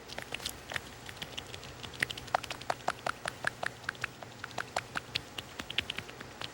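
A cat lapping milk with its tongue: a quick, even run of small wet clicks, about three to four a second, growing louder about two seconds in.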